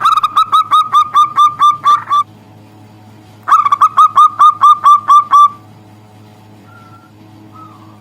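Zebra dove (perkutut) calling: two rapid runs of short, hooked whistled notes, about five a second, each run lasting about two seconds, followed by two faint single notes near the end.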